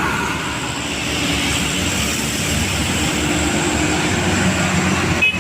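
Heavy truck's diesel engine running steadily under load as it climbs, a low rumble with a thin high whine over it. The sound cuts out briefly near the end.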